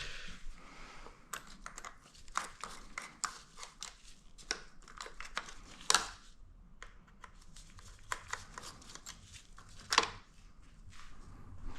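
Light handling noises from work on the motorcycle's parts: scattered small clicks and rustles, with two sharper clicks about six and ten seconds in.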